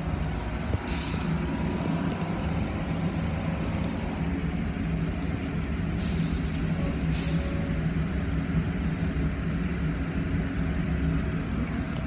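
A heavy vehicle's engine running steadily at idle, with short bursts of hissing air about a second in, at about six seconds and again a second later.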